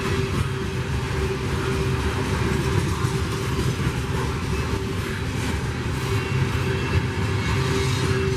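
Freight train rolling past: a steady low rumble of diesel locomotive and rail wagons, with a constant faint hum above it.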